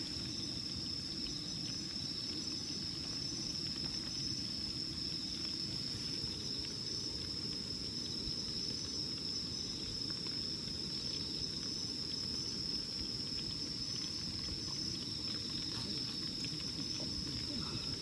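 Insects calling in a steady, continuous high-pitched chorus over a low rushing noise, with a few faint ticks.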